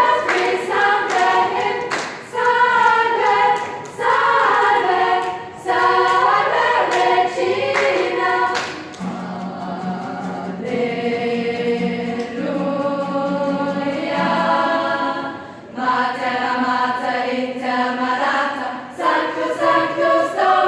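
Youth choir singing in parts. About halfway through, the phrases give way to a stretch of long held chords with lower voices underneath, before the livelier phrasing returns.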